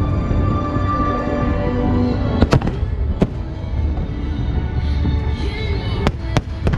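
Fireworks going off: a steady low rumble of bursts, with sharp loud bangs about two and a half seconds in, again under a second later, and three in quick succession near the end. Music plays alongside.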